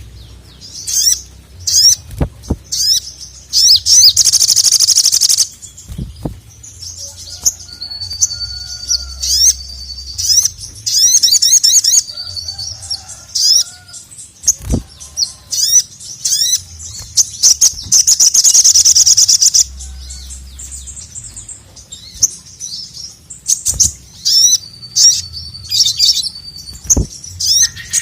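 Little spiderhunter (sogon) singing hard: loud, high-pitched chattering calls repeated in quick bursts, with two long rapid rattles and one drawn-out steady whistle, and a few brief low thumps.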